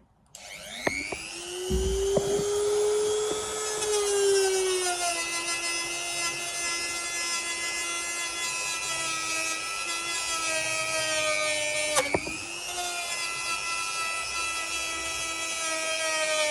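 Dremel-type rotary tool spinning up with a rising whine, then running steadily. Its pitch drops a few seconds in as it bears on the axe's steel to strip surface rust. About twelve seconds in it briefly dips and picks back up.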